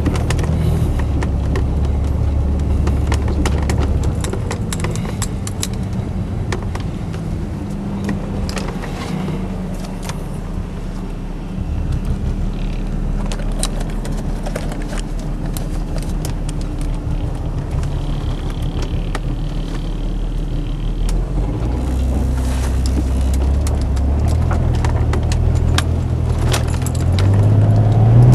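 Chrysler Sebring's Mitsubishi 2.5-litre 24-valve V6 running under way, heard from inside the car; the engine note shifts up and down and rises near the end as the car accelerates. Frequent light clicks and rattles sound over it.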